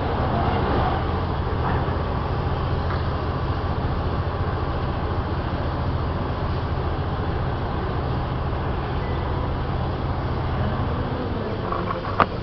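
Train running: a steady rumble with a low hum, and a single sharp click near the end.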